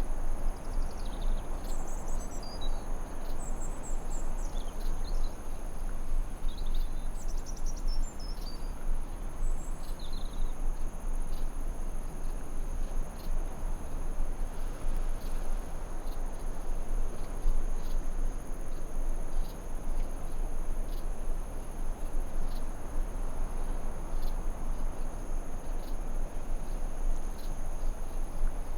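Forest ambience of steady high insect trilling, like crickets, over a continuous rushing noise, with short bird chirps in roughly the first ten seconds.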